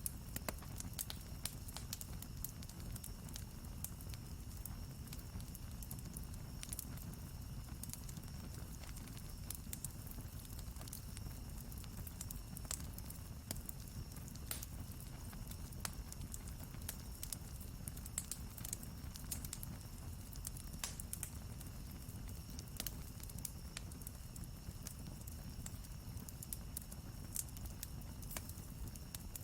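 Wood campfire crackling, with frequent irregular sharp pops and snaps over a steady low rustle of burning.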